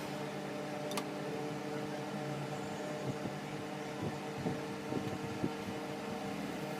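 Steady hum of an electric table fan running, with a sharp click about a second in and a handful of light taps and knocks between about three and five and a half seconds.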